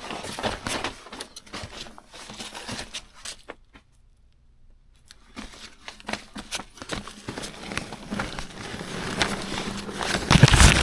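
Rustling and scuffing handling noise with scattered clicks and knocks as a person moves about. It goes almost quiet briefly about four seconds in, then picks up again and grows louder near the end.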